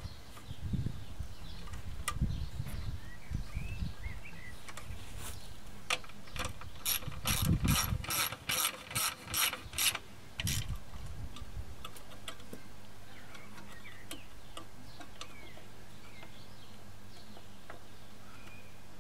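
Hand-tool work on a lawn mower: knocks and handling, then a run of about nine evenly spaced clicks, roughly three a second, lasting about three seconds.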